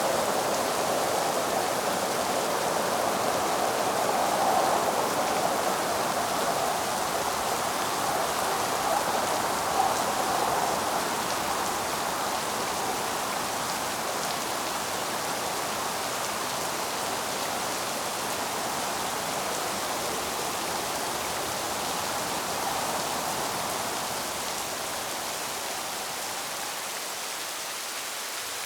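Steady rain, a dense even hiss that slowly grows quieter over the second half.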